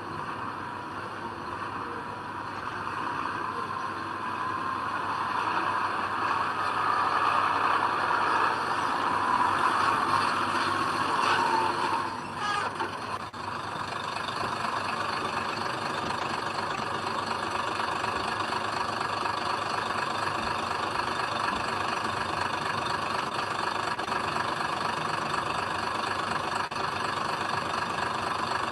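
Heavy diesel earthmoving engine running, its sound building over the first ten seconds or so, then dropping off abruptly about twelve seconds in before running steadily again.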